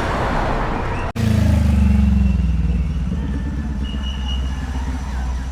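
Motorcycle engine running while riding, with a rush of wind and road noise. After a brief break in the sound about a second in, the engine note comes through louder and its pitch falls slightly as the bike eases off.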